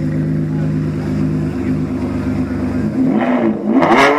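Ferrari F12's V12 engine idling steadily, then about three seconds in the pitch dips and starts climbing as the engine is revved, growing much louder near the end.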